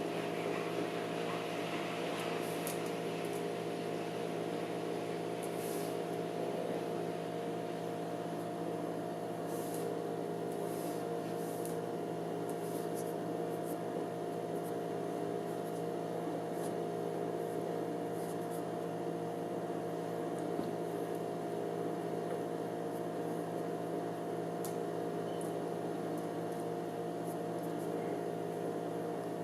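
Spinning gyroscope humming steadily at an even pitch, several steady tones together, with a few faint high ticks now and then.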